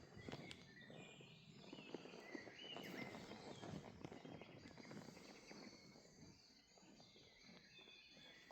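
Faint birdsong: small birds give short chirps that rise and fall in pitch, with a quicker trill near the end.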